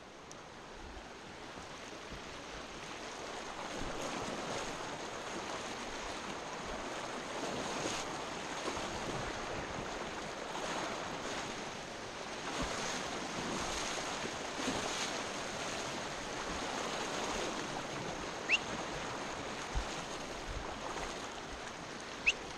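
River water rushing through a rapid around a kayak, a steady hiss that swells a few seconds in. Two brief high chirps come near the end.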